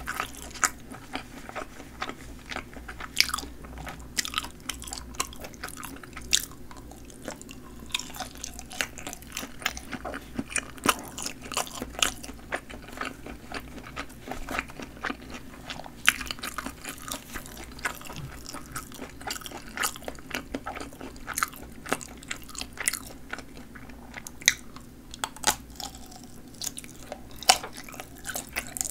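Close-miked chewing of snappy-casing sausages: the skins give sharp, crisp pops and squeaky snaps at an irregular pace, several a second, between softer mouth sounds.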